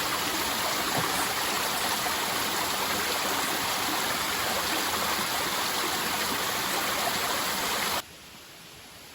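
Waterfall water rushing: a loud, steady noise that cuts off abruptly near the end.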